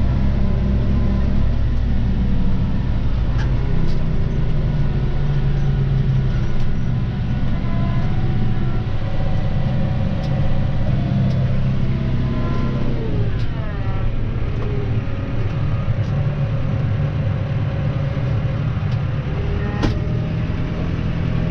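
Claas Arion 530 tractor's diesel engine running steadily under load, with a tone that falls in pitch about two-thirds of the way through.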